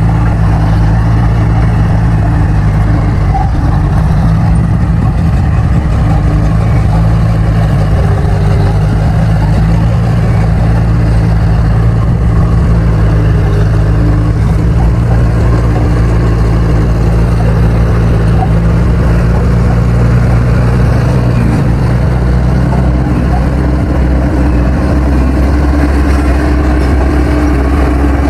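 Bulldozer's diesel engine running steadily and loud, with a constant low drone.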